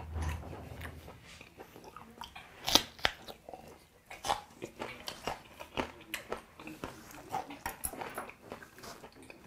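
A person biting into a raw green chili pepper and chewing it close to a clip-on microphone: two sharp crunches about three seconds in, then irregular wet chewing clicks.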